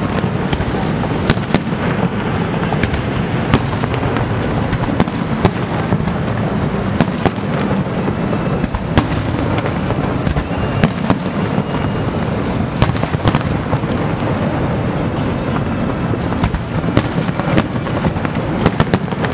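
Fireworks display: aerial shells bursting in quick, irregular succession, with sharp bangs over a dense, continuous din of booms.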